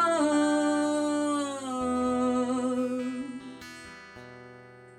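The last held sung note of a song over a ringing acoustic guitar chord: the voice steps down in pitch twice and fades out about three seconds in, and the guitar dies away after it.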